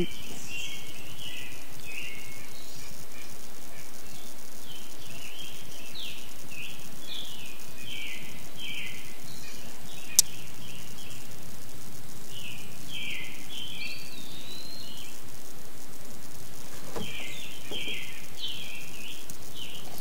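A wild bird singing: groups of quick, high chirping notes, some of them sliding in pitch, each group lasting a few seconds and coming again after short pauses, over a steady outdoor hiss. A single sharp click sounds about halfway through.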